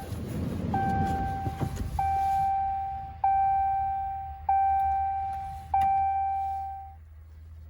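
Dodge Ram's in-cab warning chime ringing five times, about one and a quarter seconds apart, each a single tone fading out, over a steady low hum, with some rustling in the first couple of seconds.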